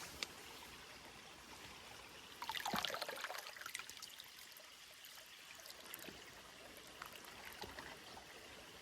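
Water trickling, with a louder burst of splashing about two and a half seconds in.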